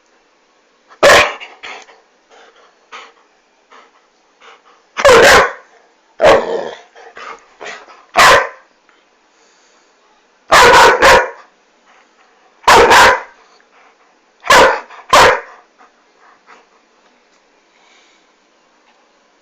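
A dog barking loudly in short single and double barks, a second or few apart, with quieter rustling between.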